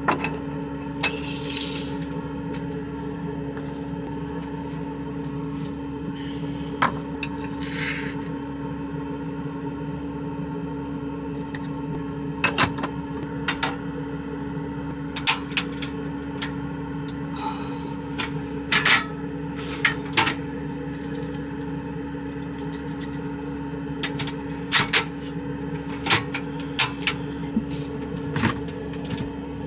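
A steady mechanical hum, with scattered clicks and knocks and a few brief scrapes of objects being handled.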